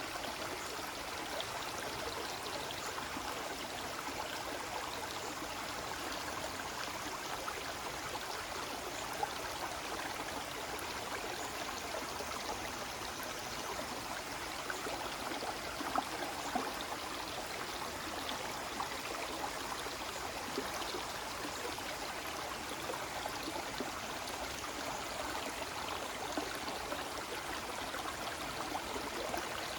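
Small forest waterfall: a steady, even rush and splash of falling water, with an occasional sharper splash.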